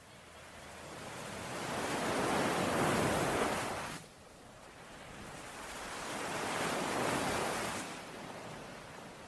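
Ocean waves washing in twice: the first builds to a peak about three seconds in and cuts off suddenly, the second swells up and fades away near the end.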